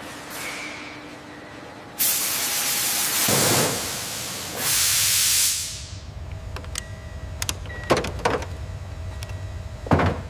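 Two loud bursts of pressurised hissing, the first about a second and a half long and the second about a second, followed by a run of sharp clicks and knocks.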